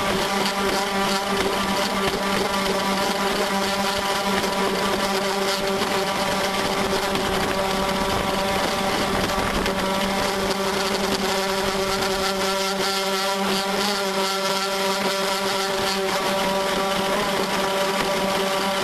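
Radio-controlled model speedboat's motor running at a steady high speed, heard from on board, with water hissing past the hull. The motor holds one even pitch.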